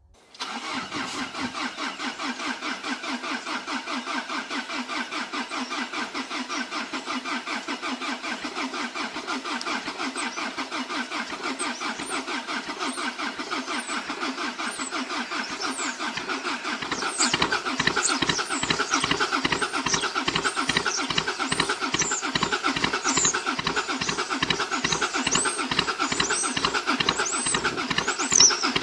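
Diesel car engine being started cold, with an even, rhythmic chugging that grows louder and deeper about two-thirds of the way through. Birds chirp faintly in the background.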